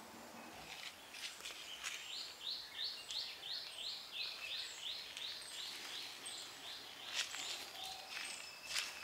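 A bird calling a quick run of repeated down-slurred notes, about three a second, for several seconds. Footsteps crunch on gravel, with the sharpest step about seven seconds in.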